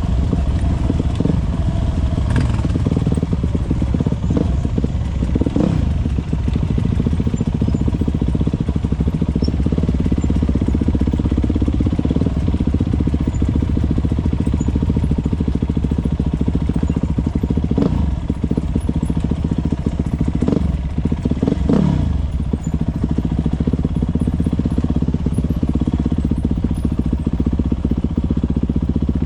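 Motocross bikes racing, their engines running continuously and loudly. Several times a loud engine note sweeps steeply down in pitch.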